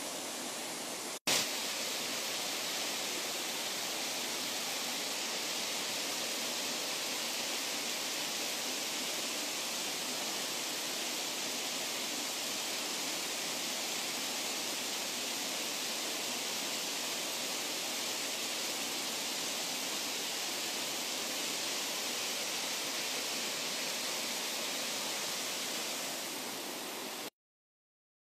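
Steady rushing water, an even hiss with little low end. It breaks off briefly a little over a second in and drops out to silence just before the end.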